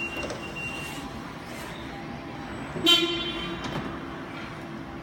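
A single short vehicle horn toot about three seconds in, over a steady background hum.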